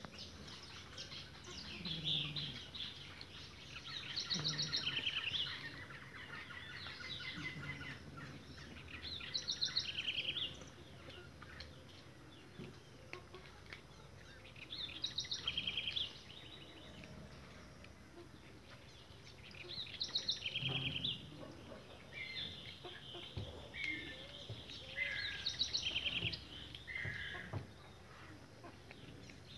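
Birds calling: one bird repeats a call of rapid stuttering notes about every five seconds, with other chirps between.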